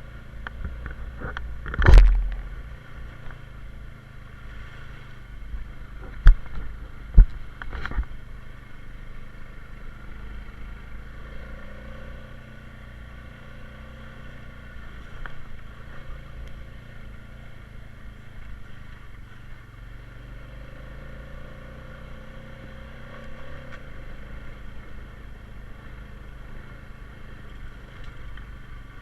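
Honda Rubicon 520 ATV's single-cylinder engine running steadily on the trail. There is a loud sharp knock about two seconds in and three more a few seconds later.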